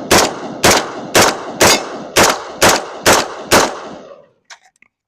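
Rifle fired in a steady, controlled timed string: eight shots about two a second, each with a short ringing echo. A few light clicks follow the last shot.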